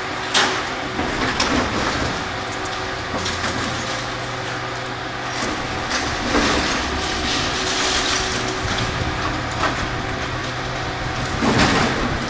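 Heavy demolition machinery at work: an engine running steadily under repeated knocks, crunching and scraping of breaking building material. The loudest impacts come about half a second in and near the end.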